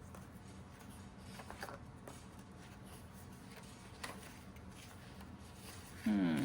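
Faint handling noises of paper money and envelopes, with a few light clicks and taps. Near the end, a short loud squeak falling in pitch.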